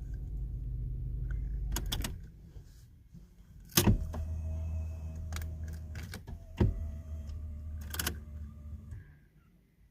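A small electric motor in the car hums in two runs. Sharp clicks come about 2, 4, 6.5 and 8 seconds in, and the hum stops about a second before the end.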